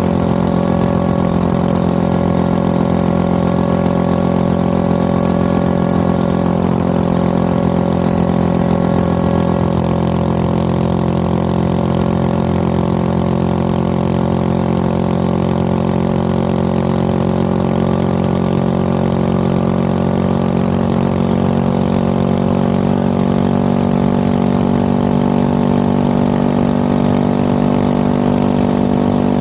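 Motorcycle engine running steadily at an even engine speed, its pitch easing down slightly about ten seconds in.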